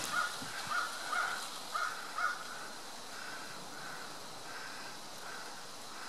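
Short, harsh, caw-like bird calls repeated about twice a second, plainer in the first couple of seconds and fainter after, over a steady outdoor hiss.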